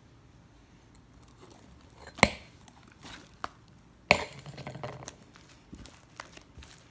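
Objects being handled: two sharp knocks, about two and four seconds in, the second followed by small clicks and crinkling.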